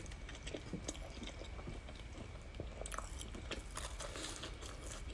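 Quiet, close-miked chewing and biting of a crumb-coated, deep-fried savory bun: soft mouth sounds with scattered small crunches and clicks.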